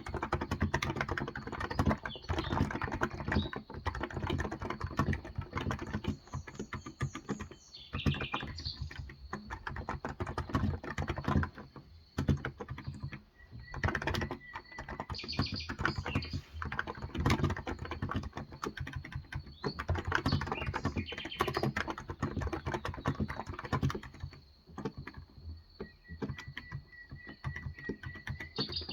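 Typing on a Cox Endeavor electrostatic capacitive (Topre-style) keyboard with 35 g switches: fast, continuous keystrokes with brief pauses about twelve seconds in and again about three quarters of the way through.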